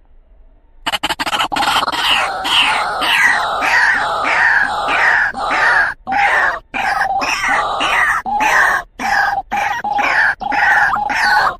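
White-breasted waterhen (truwok) calling: a loud, dense run of harsh repeated notes, about three a second, starting about a second in and broken by a few sudden short gaps. It is a lure call meant to draw in a male waterhen.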